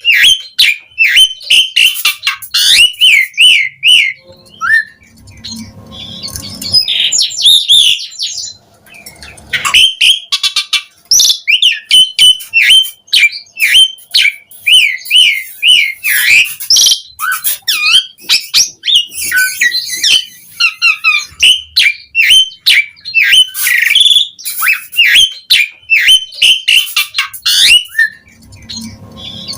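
Asian pied starling singing a rapid, varied song of whistled notes, harsh chatters and sharp clicks, with a quieter lull from about five to nine seconds in.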